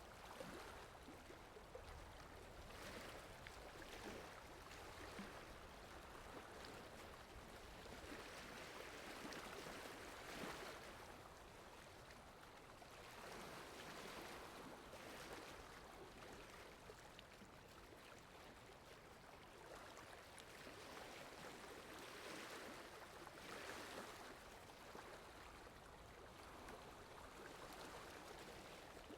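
Faint, steady rain-in-the-forest ambience: an even hiss of falling rain that swells and eases every few seconds.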